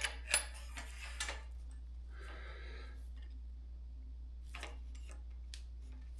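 Light metallic clinks and clicks of a bicycle quill stem being worked into the fork's steerer tube: a quick cluster in the first second or so, a short scrape around two seconds in, then a few single clicks near the end.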